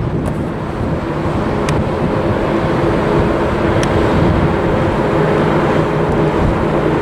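Jet airliner on approach: a steady rumble with a low hum, slowly building, with wind on the microphone.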